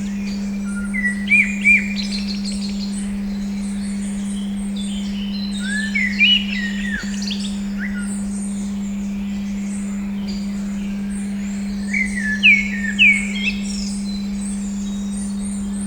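A steady 200 Hz pure tone hums under birdsong. Birds chirp in three short bursts of rising and falling notes, a little after the start, in the middle and near the end.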